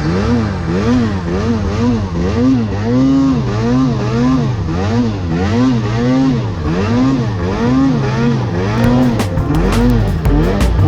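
Snowmobile engine running hard, its pitch rising and falling about twice a second as the throttle is worked through deep snow. Sharp clicks come in near the end.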